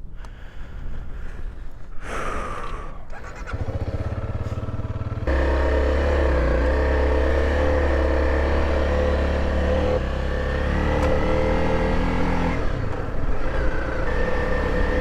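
Motorcycle engine running while being ridden. The sound changes abruptly a few times early on; from about five seconds in it holds a steady engine note over a low rumble.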